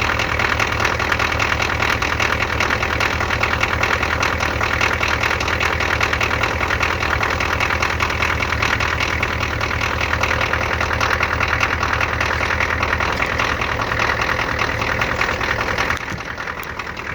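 Ford 6.9-litre IDI diesel engine running with a steady, dense clatter just after a cold start in deep cold, started on starting fluid without working glow plugs. The sound drops in level about a second before the end.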